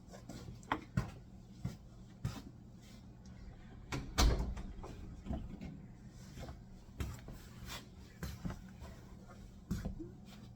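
Scattered light knocks and clicks, with one louder thump about four seconds in, over a low steady hum.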